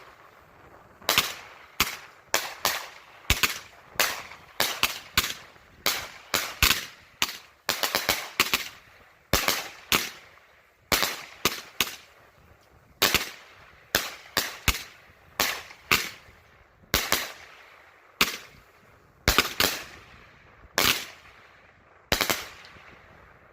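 Consumer 200-gram repeater fireworks cake firing: a long, uneven run of sharp bangs, roughly one to two a second, each with a short echoing tail, with a quick burst of several close together about a third of the way in. The bangs stop shortly before the end.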